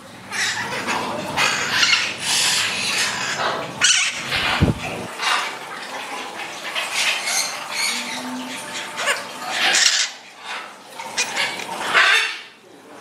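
Pet birds at close range giving repeated harsh squawks and screeches, with a single low thump about four and a half seconds in.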